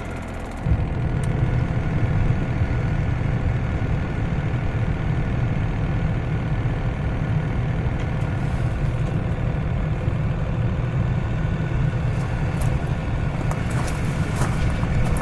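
A vehicle engine running steadily with a low rumble that steps up in level about a second in.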